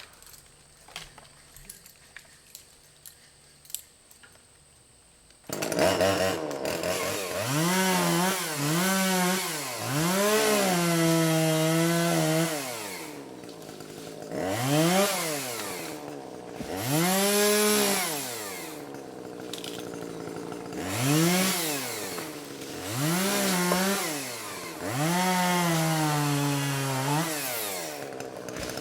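A chainsaw cutting small trees comes in suddenly about five seconds in, after a few faint clicks. It is revved in repeated bursts, its pitch rising and falling every second or two, dropping back between cuts.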